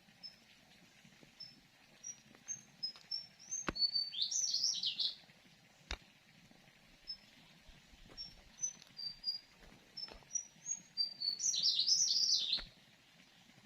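A songbird singing two phrases, each a run of short high notes that climb and quicken, then end in a loud jumbled flourish. A few sharp clicks sound in between.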